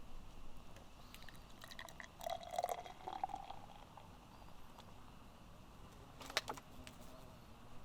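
A short, faint pour of liquid, with a few light clicks, and a single sharp click about six seconds in.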